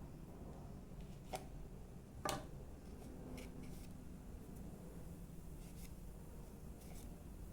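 A few light clicks and knocks, the sharpest about two seconds in, with fainter ticks later, over a low steady hum.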